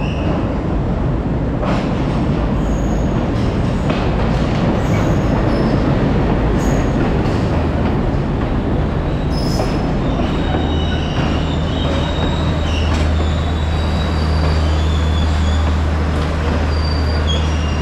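Passenger train pulling into the station platform: loud rumbling of the carriages on the rails, with short high wheel squeals in the second half and a steady low drone setting in about ten seconds in.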